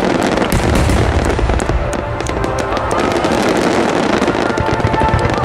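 Large festival fireworks bursting in a dense, continuous barrage: deep rumbling booms overlaid with rapid crackling from many shells. Faint music plays underneath toward the end.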